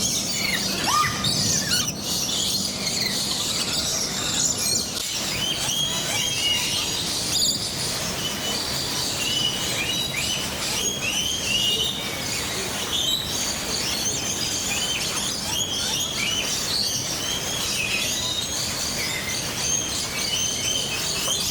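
A chorus of many birds chirping, with dense, overlapping short high chirps and whistles that never let up.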